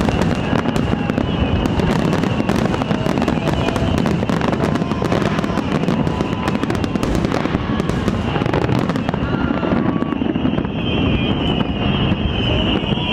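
A fireworks display going off in a dense run of crackling bangs, which thin out after about nine seconds.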